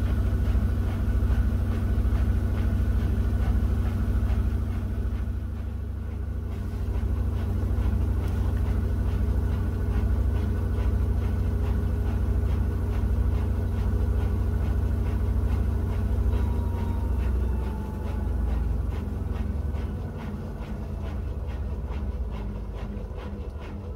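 Miele W1 front-loading washing machine running, a steady low rumble with motor hum and a fine regular pulsing, easing somewhat over the last few seconds.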